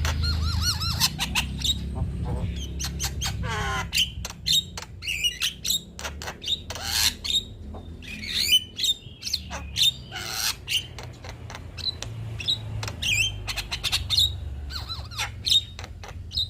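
Male Javan myna singing a varied, busy song of sharp clicks, short whistles and harsh chattering notes, with many gliding notes throughout. A steady low hum runs beneath.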